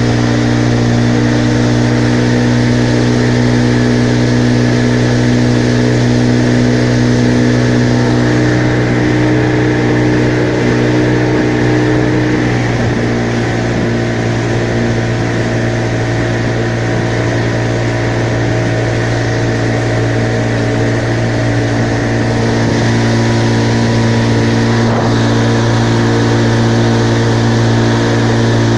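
Engine running steadily at a constant speed, its tone shifting slightly about midway.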